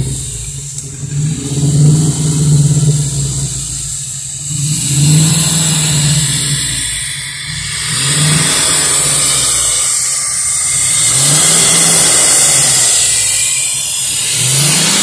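Engine of an old, long-neglected car running, revved up and let fall back in repeated swells every couple of seconds, with a steady hiss above it. The engine has just been brought back to running.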